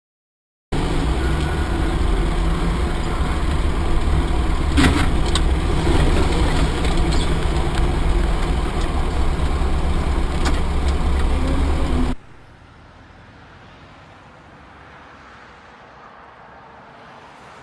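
Vehicle driving noise recorded from inside a car, a loud steady rumble of engine and road with a few sharp knocks. About twelve seconds in it cuts off abruptly to a much quieter hiss.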